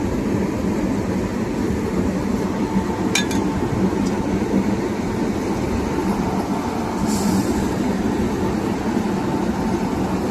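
Steady rumble of a railway locomotive standing by, with a continuous low hum, a sharp click about three seconds in and a short hiss about seven seconds in.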